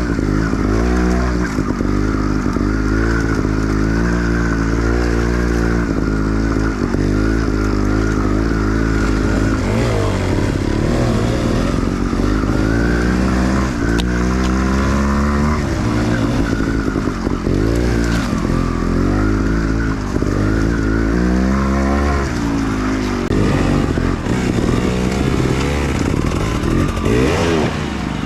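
Enduro dirt bike engine revving up and dropping back over and over. The throttle is opened and closed every second or two, with a few clatters from the bike over rough ground.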